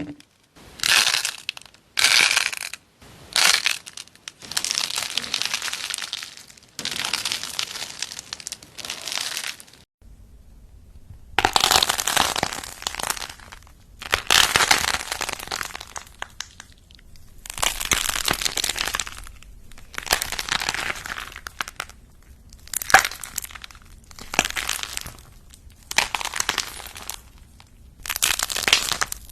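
Crunchy ASMR slime or cracking clay being pressed and crushed by hand, crackling in repeated bursts of a second or two with short pauses between them, and a brief silent gap about ten seconds in.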